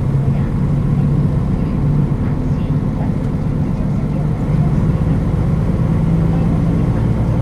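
Nissan Diesel KL-UA452KAN city bus under way: its diesel engine runs steadily under a low road rumble, the engine note rising a little in the middle and easing back near the end.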